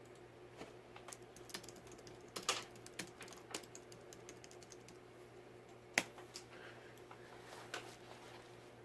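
Irregular small clicks and taps of hardware being handled, with a sharper knock about six seconds in, over a faint steady hum.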